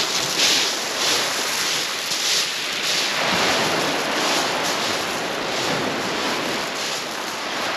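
Sea waves breaking and washing back over the shingle of Chesil Beach, a steady hiss with a few stronger surges in the first couple of seconds.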